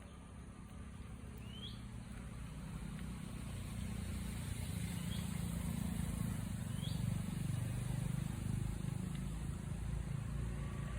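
A motor vehicle's engine running, growing louder in the middle and easing off toward the end. A few short, rising bird chirps sound over it.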